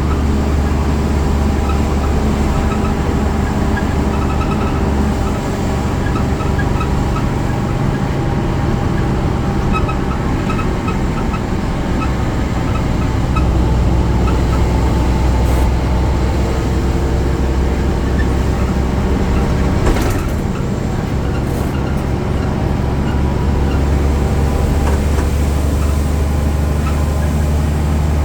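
BredaMenarini Avancity Plus city bus's Deutz Euro 5 diesel engine and drivetrain running steadily, with a deep hum and pitch that shifts a little over time. A single sharp click about twenty seconds in.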